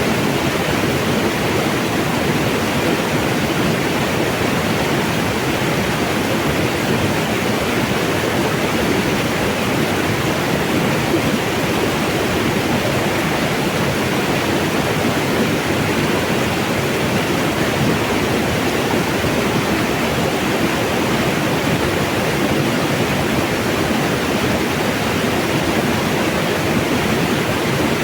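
Mountain water rushing and splashing over rocks, a steady, unbroken noise that holds one level throughout.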